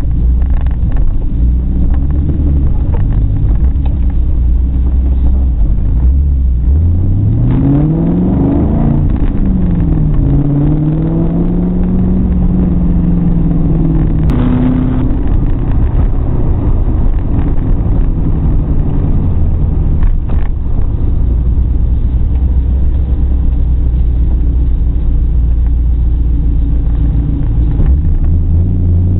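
1999 Ford Mustang GT's 4.6-litre V8, heard from inside the cabin, running steadily at low revs. About six seconds in it revs up hard, the pitch climbing fast, drops at a gear change and climbs again, then settles back to low revs around fourteen seconds in.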